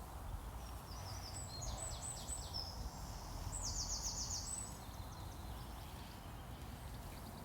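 A small bird singing two short phrases of rapid, high chirps, the second a fast trill, over a steady low outdoor rumble.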